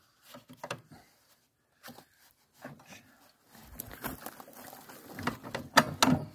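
Scattered knocks and clicks of hands handling parts and tools, getting busier in the second half, with a couple of sharp knocks near the end.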